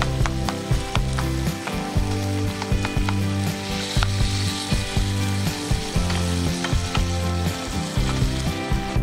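Food sizzling in a frying pan under background music with a steady beat and a bass line.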